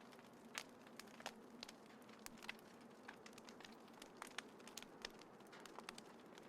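Small wood fire crackling: irregular sharp pops and ticks over a soft, steady hiss, with a couple of louder pops in the first second or so.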